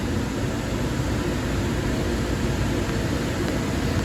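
Steady running noise of a light rail train heard from inside the car: an even low rumble and hiss from the wheels, motors and ventilation, with no sudden events.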